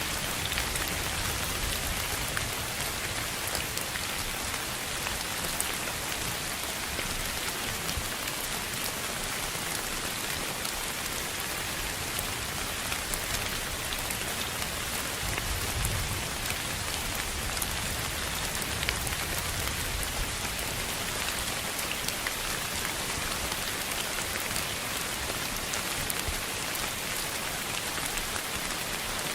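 Steady, even hiss of continuous noise, peppered with a fine patter of tiny clicks, over a soft low rumble that swells slightly around the middle.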